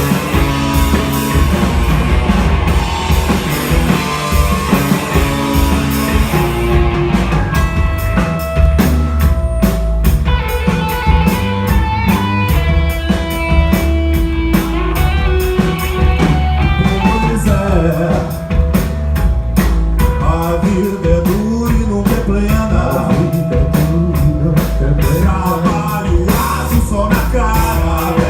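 Live rock band playing an instrumental stretch of a song: a steady drum-kit beat and bass under a lead line of long held notes. The drums stand out more clearly from about seven seconds in.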